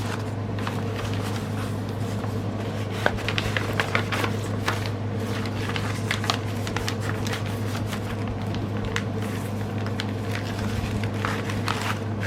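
Cross stitch kit packaging and papers being handled: scattered crinkles and clicks over a steady low hum.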